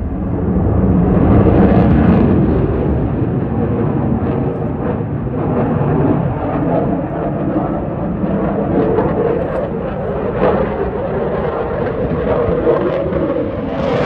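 Loud jet noise from a Dassault Rafale C's twin Snecma M88 turbofan engines during a display pass, a continuous deep rumble and roar that swells about a second or two in, then holds steady.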